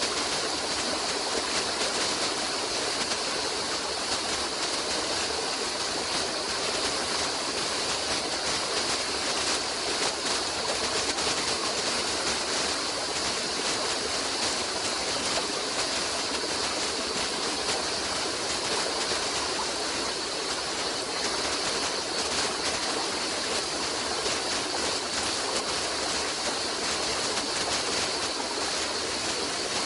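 A stream of running water, flowing steadily with an even rush that does not break or change.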